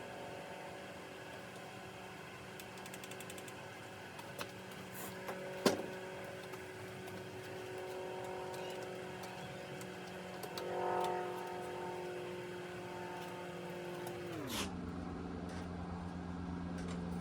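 A steady motor hum with a few light clicks and knocks; about fourteen seconds in, the hum slides down in pitch and carries on lower.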